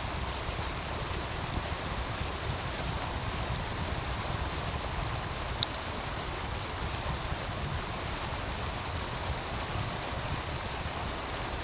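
Wood fire crackling with scattered sharp pops over the steady rushing of a meltwater stream. One louder pop comes about halfway through.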